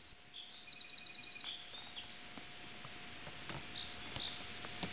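Birds chirping outdoors, with a quick trill of about eight repeated notes about a second in, over a steady background hiss.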